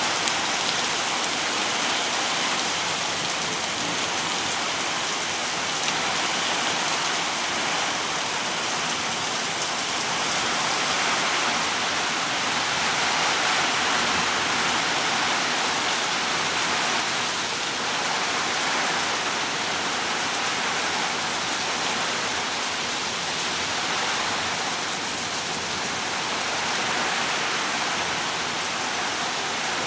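Heavy rain pouring down in a steady, dense hiss that swells and eases slightly.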